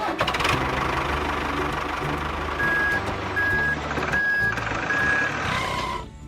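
Truck engine running with its reverse-warning beeper sounding four evenly spaced beeps, about one every three-quarters of a second.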